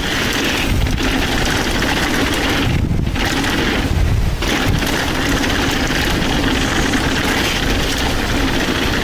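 Wind rushing over the microphone of a mountain bike going downhill, with the rolling rumble of the ride beneath it.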